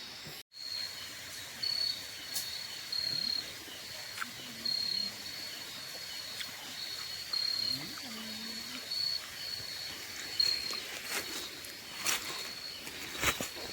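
Crickets chirping in a steady high trill broken into short pulses, with a few sharp clicks or rustles near the end.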